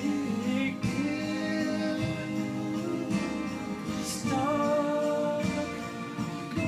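Acoustic guitar playing a slow song with a wordless held vocal line; the voice bends in pitch about four seconds in.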